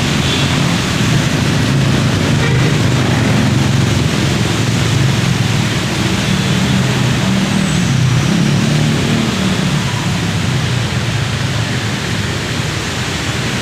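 Vehicle traffic in heavy rain on a flooded road: a steady rush of noise under a low engine rumble that swells in the middle.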